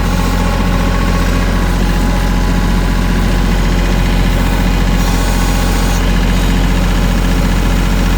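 Tractor engine running steadily at an even speed, a constant low drone.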